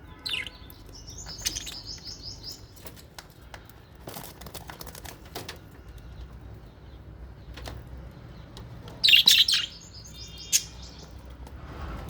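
Small parrots (budgies and lovebirds) in an aviary chirping and calling, with short wing flaps and scattered clicks. A louder burst of shrill calls comes about nine seconds in.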